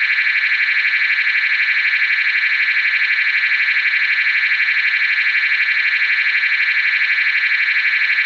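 GE AS363 alarm tone generator sounding a 250 Hz to 1200 Hz sweep repeated at 12 times a second, a loud, unbroken fast warble that can sound like a microphone glitch. It is a tone sometimes used as a security deterrent.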